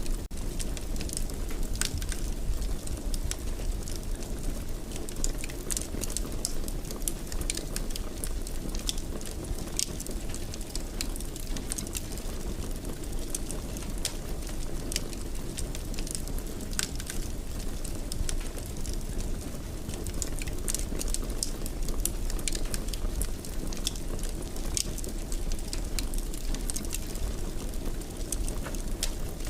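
Fire burning in a fireplace: a steady low rush of flames with many small, sharp crackles and pops scattered throughout.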